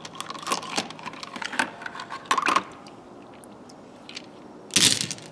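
Craftsman steel sockets clicking and clinking against each other as they are handled and set down, in irregular small knocks. Near the end comes one short, louder rushing burst.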